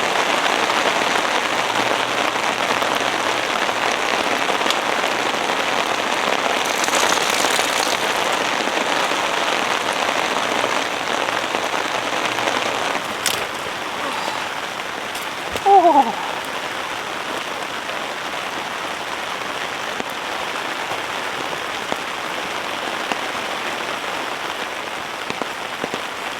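Heavy rain pattering steadily on tent fabric, easing a little about halfway through. A brief, high, wavering pitched sound cuts in once, about two thirds of the way through.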